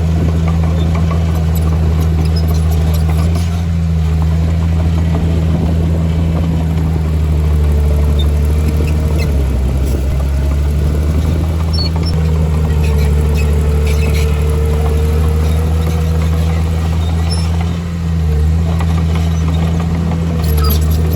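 Heavy diesel engine of an earthmoving machine running steadily under work, with a faint whine that rises and fades twice in the middle.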